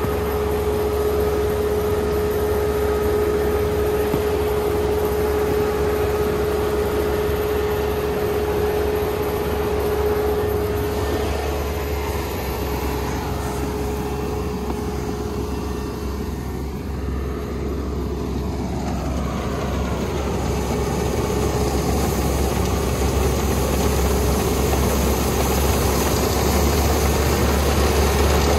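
Rice combine harvester running steadily. A high steady whine fades out about twelve seconds in, and the sound dips briefly and swells again a few seconds later.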